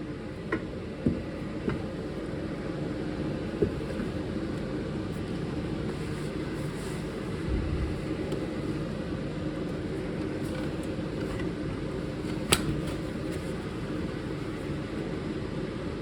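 Steady low mechanical hum with a few light clicks and knocks, and one sharp click about twelve and a half seconds in.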